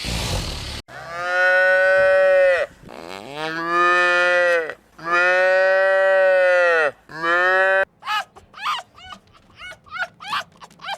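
Cattle mooing: after a brief rush of noise, three long, even moos of about two seconds each and a short fourth one. From about eight seconds in, a quick string of short, high calls follows from a different animal.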